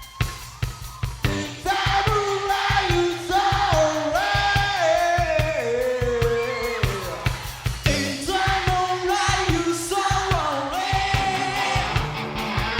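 Rock band playing live, with steady drum hits under a sliding, stepping melodic lead line.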